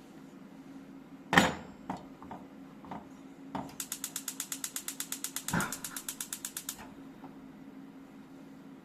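A sharp knock, then a small mechanism ratcheting: an even run of rapid clicks, about ten a second for some three seconds, with a knock partway through. A low steady hum runs underneath.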